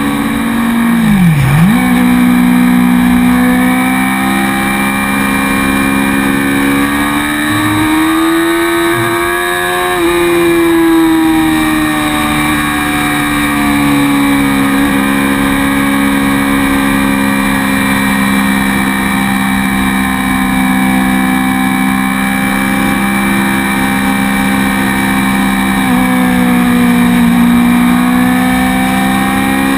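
Motorcycle engine running at road speed, heard close up from a camera on the bike itself. The pitch drops sharply and recovers about a second and a half in, climbs gradually until about ten seconds in, then eases back and holds steady.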